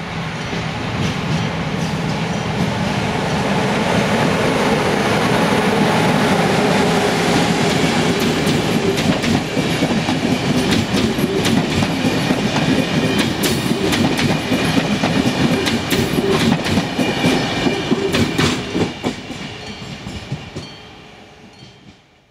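A train passing close by on the track. The rumble of the wheels builds up and holds loud, with a fast run of clacks over the rail joints through the middle, then fades away near the end.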